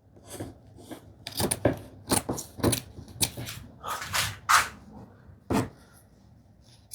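Handling noises from a cotton sheet being readied: irregular rustling with scattered light knocks and clicks.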